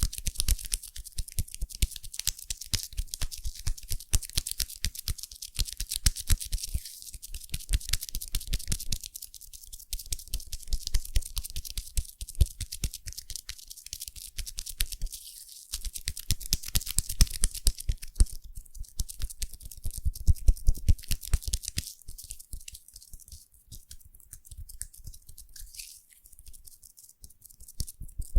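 Foam squished and crackling close to the microphone: dense fizzing pops of bursting bubbles with soft low thumps, coming in stretches with short quieter pauses.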